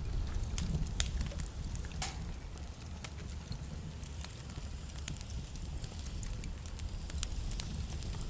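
Wood fire burning in a fireplace, with irregular sharp crackles and pops from the burning logs over a steady low rumble of the flames.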